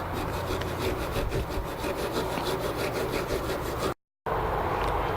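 Wire brush scrubbing rust off metal water-line fittings in quick back-and-forth strokes, several a second, with a brief gap near the end.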